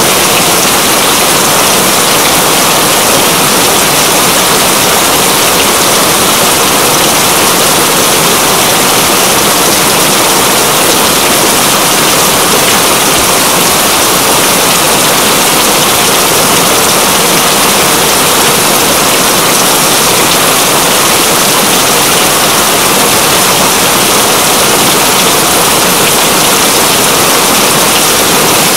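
Steady, heavy rain: a dense, even hiss of falling water that does not change.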